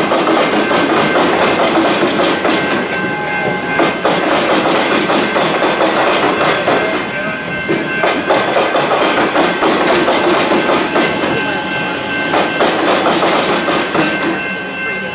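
A train or tram running through a level crossing where train and tram tracks cross, its wheels clacking over the rail joints now and then, with a steady high whine.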